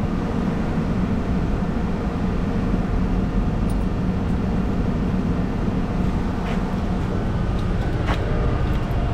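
Engine of a fork-equipped yard machine running steadily under load with a low hum, as its forks are pushed at a thin piece of scrap. Two brief knocks come about six and eight seconds in.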